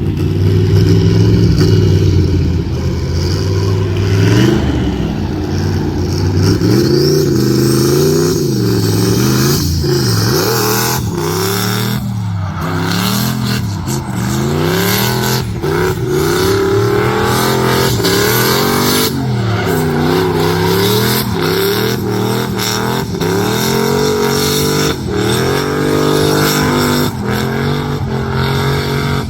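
Car engine driven hard around a course, held at high revs for the first few seconds, then revving up and falling off again and again every second or two.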